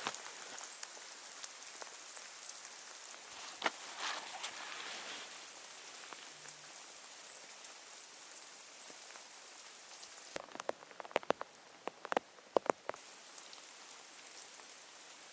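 Falling snow pattering steadily, with a quick run of sharp crunches near the end.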